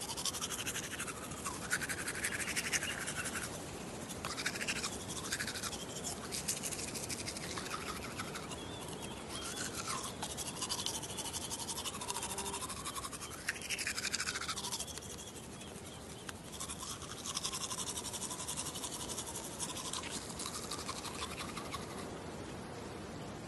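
Teeth being brushed with a toothbrush: continuous rapid scrubbing, with the hollow tone of the mouth shifting as the brush moves. It eases off briefly about two-thirds of the way through.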